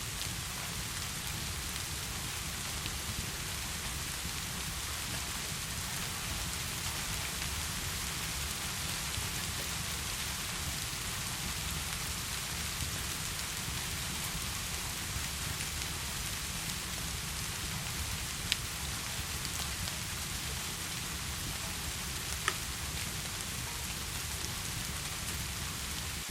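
Steady heavy rain hissing without a break, with a low rumble underneath. Two sharp pops from a log fire, one about two-thirds of the way through and one near the end.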